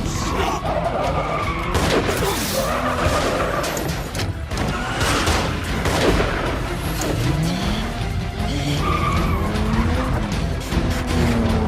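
Film car-chase soundtrack: engines revving and tyres skidding, with pitches gliding up and down, over a loud driving orchestral score.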